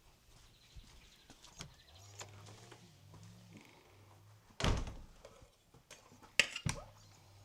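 Two loud thumps about two seconds apart, the second with a quick double knock, among faint small clicks and knocks, over a low hum.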